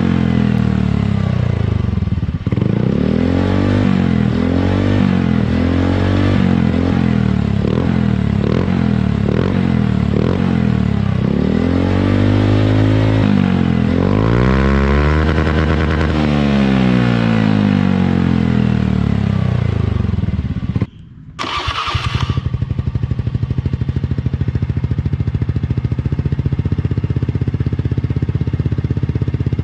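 Automatic scooter engine breathing through an aftermarket quiet CMS-copy exhaust, revved up and down again and again, the pitch rising and falling with each blip of the throttle. About 21 seconds in the sound breaks off briefly, then the engine comes back running at a steady idle.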